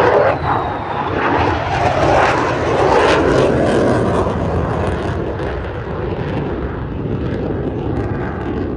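Fixed-wing aircraft flying past, its engine noise swelling just before the start, loudest over the first few seconds, then slowly fading.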